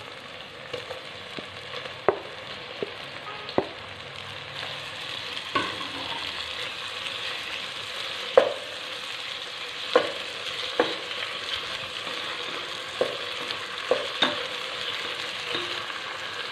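Chopped tomatoes and onions sizzling in hot oil in a pot. A wooden spatula stirs them, knocking against the pot every second or two.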